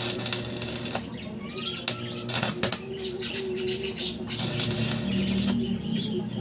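Small pet birds chirping faintly amid a run of irregular clicks, knocks and rustling, over a steady low hum.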